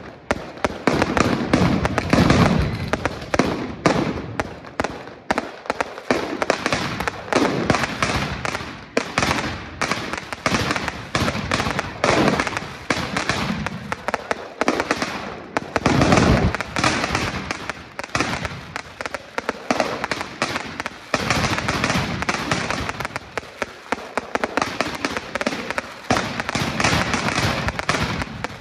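Fireworks going off in a dense, unbroken string of sharp cracks and bangs, with heavier low booms about two seconds in and again around sixteen seconds.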